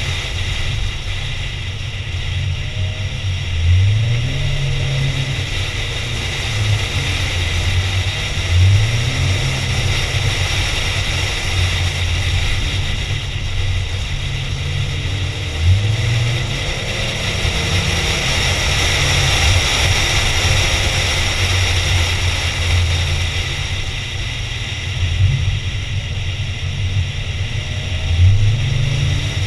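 A car engine pulling under load, its revs climbing in short rising sweeps several times as the car accelerates, over steady road and wind noise.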